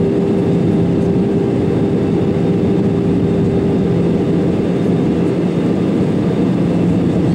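Steady jet engine and airflow noise inside the passenger cabin of an Airbus A320-200, with a constant low hum running through it.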